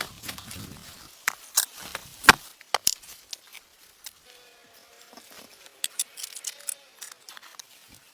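Irregular sharp clicks and knocks of something being handled or worked, the loudest a little over two seconds in, with a faint wavering tone near the middle.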